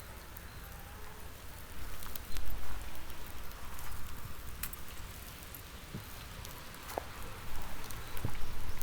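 Wood fire crackling under a barbecue grill: an even hiss with many small scattered pops, and a few louder bumps about two seconds in and again near the end.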